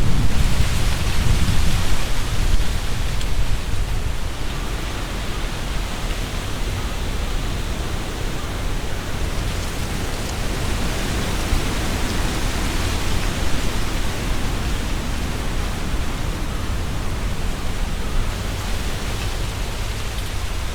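Strong wind gusting through trees, leaves rustling in a continuous hiss, with a low rumble from a strong gust in the first couple of seconds that then eases, and further swells in the middle and near the end.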